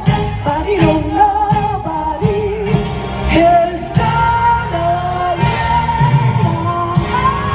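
A show tune sung with a strong, wavering vibrato on long held notes over a full band accompaniment.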